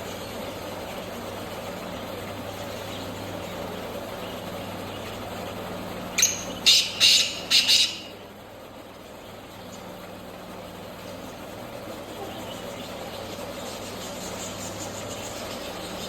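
Black francolin calling: one quick phrase of about five harsh, grating notes, lasting under two seconds, about six seconds in. A steady low hum runs underneath.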